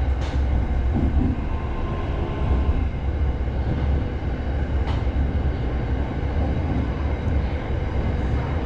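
SRT Red Line electric commuter train running, a steady low rumble with a hiss of wheels and track noise.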